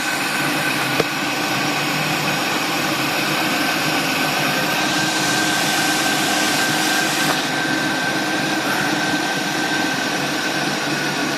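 2003 Chevrolet Venture's 3.4-litre V6 idling steadily, with a thin steady high whine. It runs just after two vacuum leaks at the intake hoses were repaired, while its fuel trims come back toward normal.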